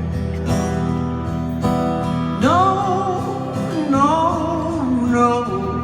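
Live solo acoustic guitar strumming chords, with a man's wordless sung notes gliding up and down twice, about halfway through and again near the end.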